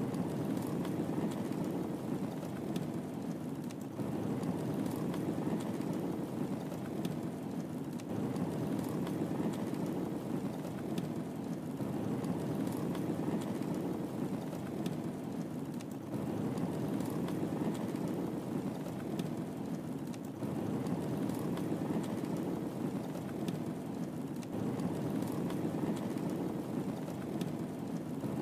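Wood fire burning in a fireplace: a steady low rush of flames with faint, scattered crackles and pops. The sound is a short loop that repeats about every four seconds.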